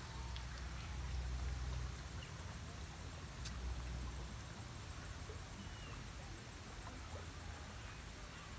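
Quiet outdoor background: a low, uneven rumble, strongest in the first two seconds, with a few faint bird chirps and a single sharp click about three and a half seconds in.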